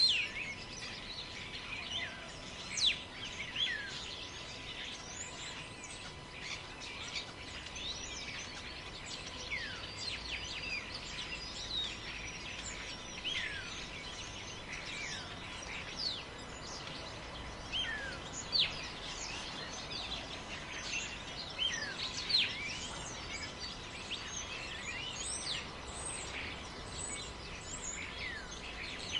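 Many birds calling at once: short falling whistles and chirps, several a second and overlapping, over a faint steady background noise.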